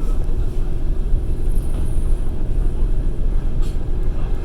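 Passenger train under way, heard from inside the carriage: a steady rumble of the wheels running on the rails.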